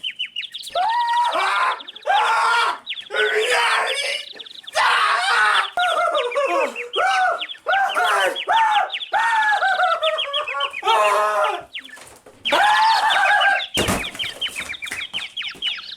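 Loud bird squawking and shrieking: a quick run of short cries that rise and fall in pitch, with a fast chattering trill over them. A short burst of noise breaks in near the end.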